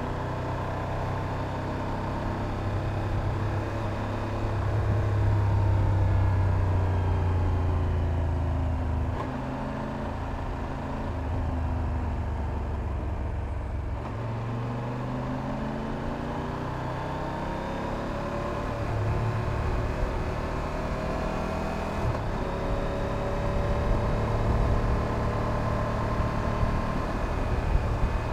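Triumph Tiger 1200 Rally Pro's three-cylinder engine running on the move, heard close from the bike itself, its pitch falling as it slows about halfway through and rising again as it accelerates.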